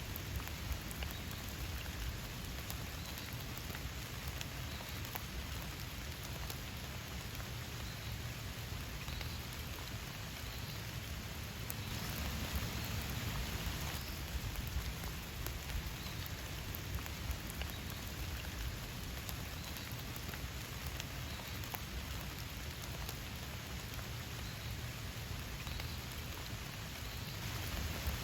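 Steady rain falling, with many individual drops ticking on a surface; it swells a little heavier for a couple of seconds about twelve seconds in.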